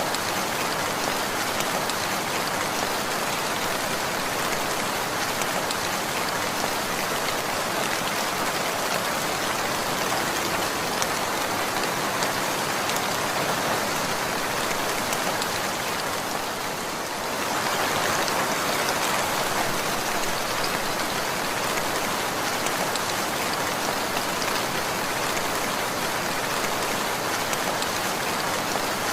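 Steady rainfall, a dense even hiss of many drops, dipping briefly in level about two-thirds of the way through.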